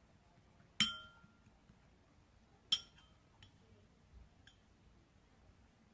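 Two sharp clinks of small hard objects knocking together, about two seconds apart, each ringing briefly, followed by a couple of fainter taps.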